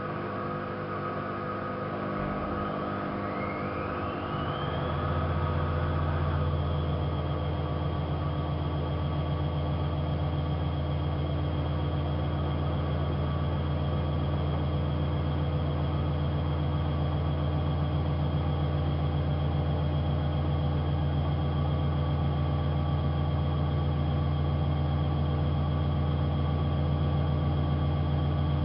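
AEG Lavamat 5210 washing machine speeding up into a spin: a whine rises in pitch over a couple of seconds, the low hum grows louder, and then the drum holds a steady high-speed spin.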